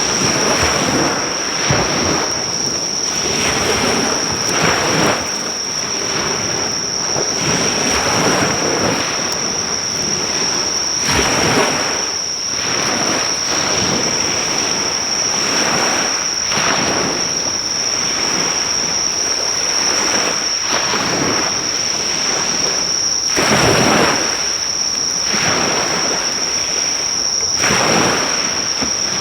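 Sea waves washing onto the shore in repeated swells, under a steady high trill of insects, with faint pops of a driftwood fire.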